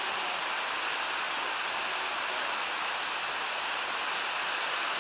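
Steady rush of water from the Dzhegosh stream's cascade of waterfalls, an even hiss without let-up.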